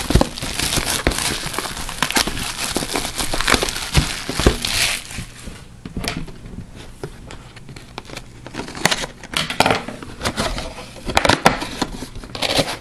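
Trading-card box and pack wrappers being handled and torn open, with irregular crinkling, rustling and tearing and many scattered sharp clicks.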